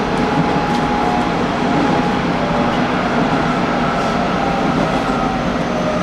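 Hanshin Railway local electric train running between stations: a steady rumble of wheels on rail, with thin whining tones that hold or glide slowly.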